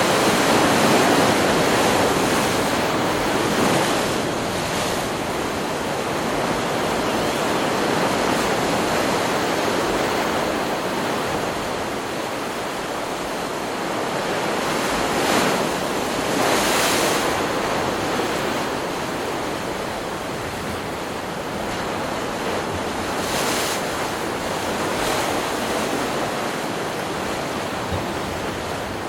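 Ocean surf: waves breaking and washing up a beach in a continuous rush, swelling loudest about a second in and again around the middle.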